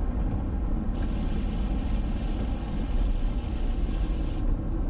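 Steady rumble and road noise of a car being driven.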